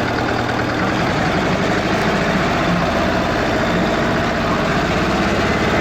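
Eicher tractor's air-cooled diesel engine running steadily, its pitch wavering slightly midway.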